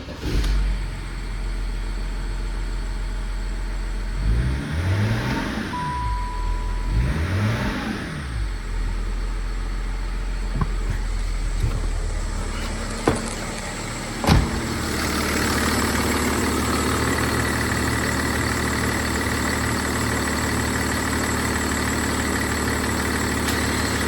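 BMW M57D30 3.0-litre straight-six turbodiesel running: it idles, is revved up and let fall back twice in a row around five and seven seconds in, then settles to a steady idle. A single sharp knock comes about fourteen seconds in.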